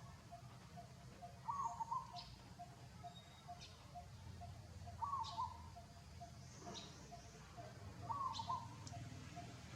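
Faint chirping calls: a short two-note chirp repeats about every three seconds, over a steady quieter peep pulsing about three times a second, with scattered sharp high ticks.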